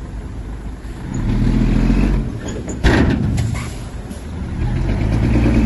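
Heavy diesel engine of earthmoving machinery working under load, its rumble swelling about a second in and again near the end. A single sharp burst of noise cuts in about three seconds in.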